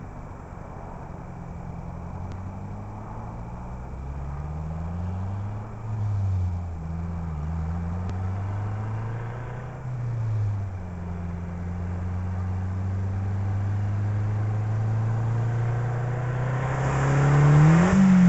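2007 Mazdaspeed6's turbocharged 2.3-litre four-cylinder, running with open headers, accelerating hard through the gears and growing louder as it approaches. The engine pitch climbs and drops at gear changes about six and ten seconds in, then rises steadily.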